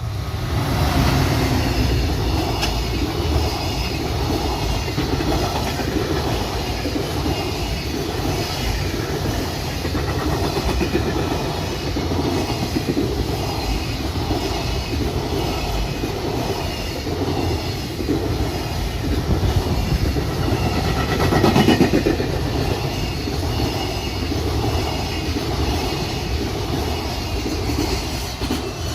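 Freight train running past, its wheels clattering over the rail joints in a steady rhythm for the whole time, loudest a little after two-thirds of the way through.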